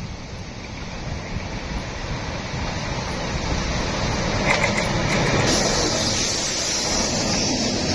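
Railway work train approaching along the track, its noise growing steadily louder, with a higher hiss coming in about halfway.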